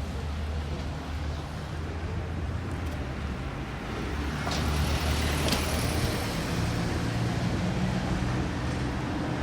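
Street traffic: a motor vehicle's engine rumble with road noise, growing louder about halfway through as a vehicle comes close.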